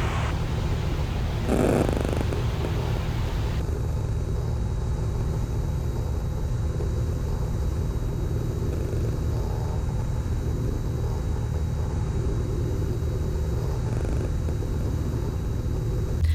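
Steady low drone of a Cessna 182's piston engine and propeller heard inside the cockpit in cruise. A lighter hiss above it drops away about three and a half seconds in.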